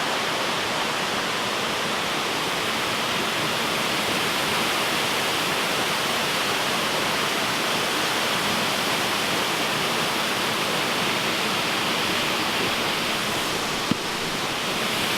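A 70-foot waterfall rushing steadily in a constant, full roar of falling water.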